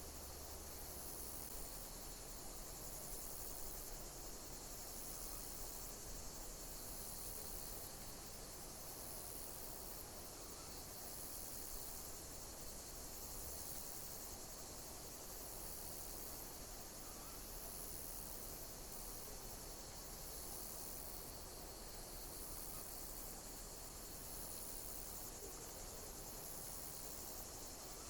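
Insects chirping in a steady high-pitched chorus, with a higher pulsing call repeating every second or two.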